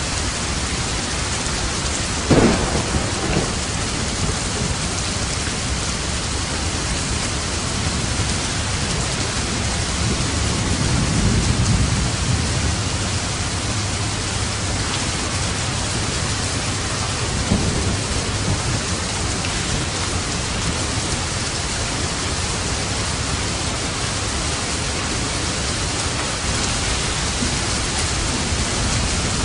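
Steady heavy rain falling, with thunder: a sharp crack about two seconds in, a longer low rumble near the middle, and a smaller crack later.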